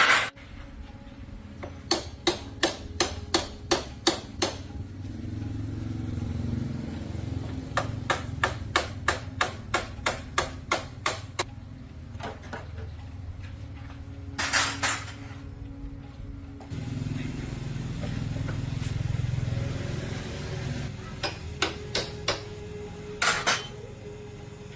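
Two runs of sharp knocks, about three a second, like a hammer tapping, with a low hum between them and a few single louder knocks.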